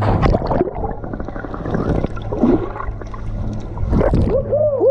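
A jumper plunging feet-first into the sea: a splash a moment in, then rough churning and gurgling of water. A whooping shout begins near the end.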